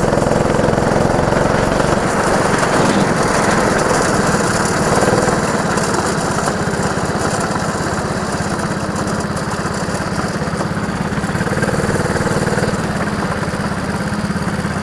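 Go-kart engine running steadily, a little quieter from about five seconds in.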